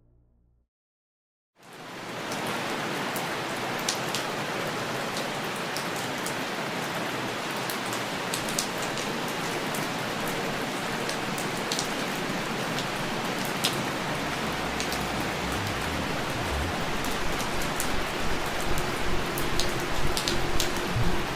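Steady rain falling, with scattered sharp drop ticks; it starts suddenly about a second and a half in, right after a music track fades out. A low rumble grows underneath in the second half.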